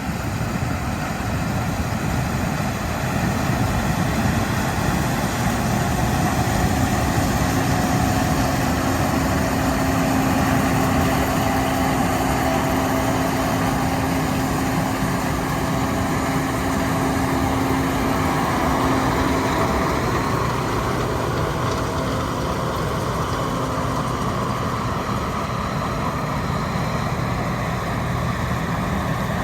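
Combine harvester running steadily while harvesting corn: a continuous engine and machinery drone. A steady hum stands out from about 7 to 19 seconds in.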